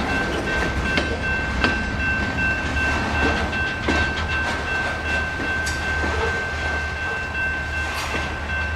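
Freight train rolling past, the wheels clicking over rail joints over a low rumble, with a steady high-pitched whine throughout.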